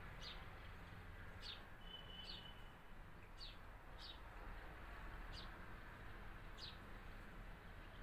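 A small bird chirping faintly and repeatedly, short high downward chirps about once a second, with one brief steady whistle about two seconds in, over a low outdoor rumble.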